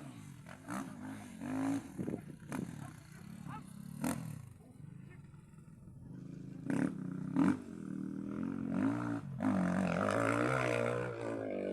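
A dog vocalising in drawn-out growling bouts whose pitch rises and falls like a motorcycle engine revving. The longest, loudest bout comes near the end.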